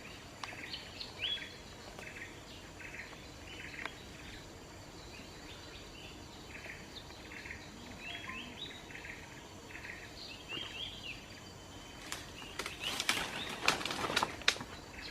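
Rhythmic chirping, about two short chirps a second, with crackling and rustling in vegetation for the last few seconds.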